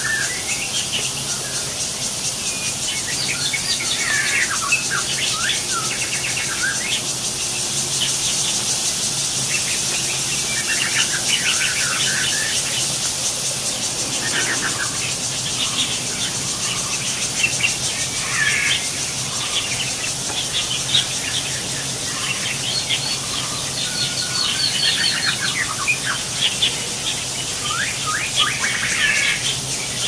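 Birds chirping in short clusters of quick calls, scattered throughout, over a steady high-pitched buzz.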